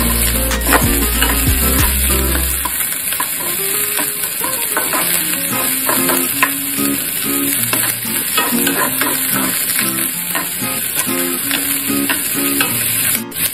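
Diced onion sizzling in hot oil in a nonstick frying pan as it is stirred with a wooden spatula. The spatula scrapes and knocks against the pan again and again over the steady sizzle.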